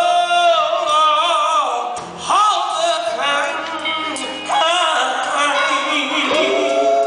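Male gospel singing with musical backing: a lead voice holds long notes with vibrato, in phrases starting about every two seconds.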